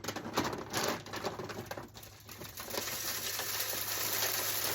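Wild bird seed being poured into a bird feeder: a dense rattling patter of seeds that is uneven at first, then settles into a steadier pour after about two seconds.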